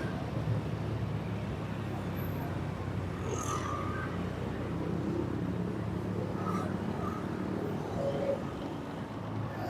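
Vehicle engine running at a steady low hum on the move, with traffic noise and a few short, faint chirps about a third and two-thirds of the way through.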